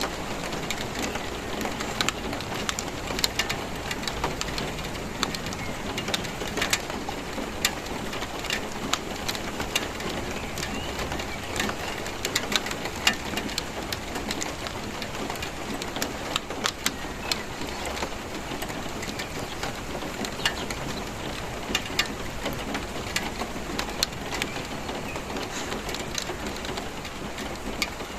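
Steady rainfall, an even hiss of rain with many sharp drops tapping on a hard surface throughout.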